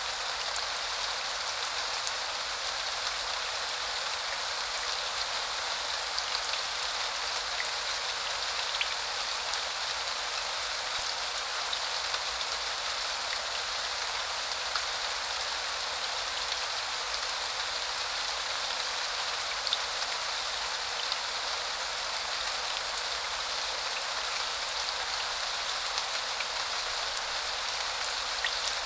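Steady rain falling: an even hiss with faint, scattered drop ticks through it.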